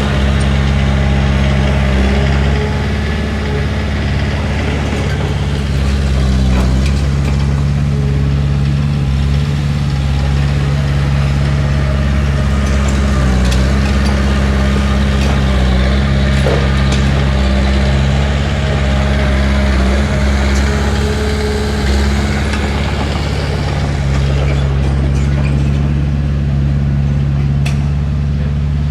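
Heavy earthmoving machine's diesel engine running steadily, its note shifting slightly a couple of times, with a few faint clanks.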